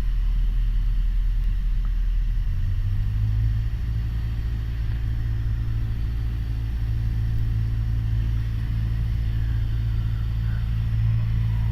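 Piper Warrior's four-cylinder Lycoming engine and propeller droning in the cockpit, the pitch stepping up about three seconds in as power comes on for a go-around, then holding steady.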